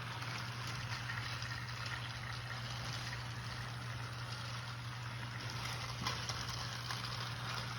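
Several battery-powered Thomas & Friends toy trains running on a plastic track, their small motors whirring steadily, with a light click about six seconds in.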